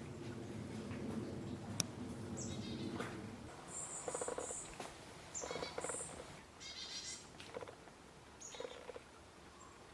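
Wild birds calling: short high-pitched notes and lower, pulsed calls coming in several separate bouts, over a low rumble that fades out about three and a half seconds in.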